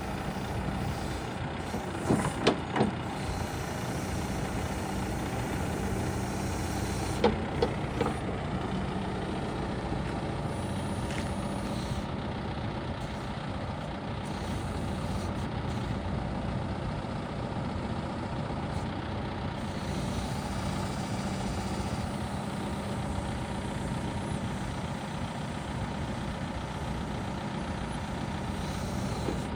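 Backhoe loader's turbo diesel engine running steadily with a constant drone, broken by a few sharp metallic clanks about two seconds in and again about seven seconds in.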